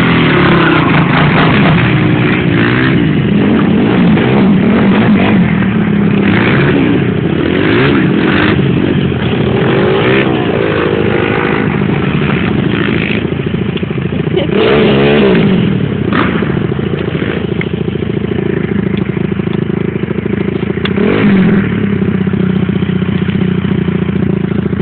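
Dirt bike engine running hard throughout, its pitch rising and falling again and again as the throttle is opened and backed off, with occasional short knocks and rattles.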